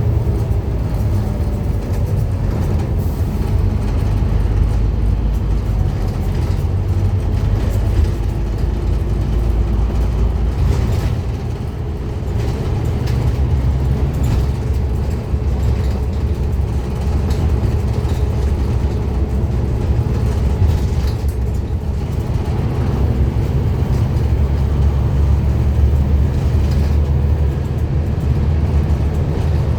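Scania N230UD Omnicity double-decker bus's diesel engine running under way, a steady low drone that eases briefly about twelve seconds in and builds again later.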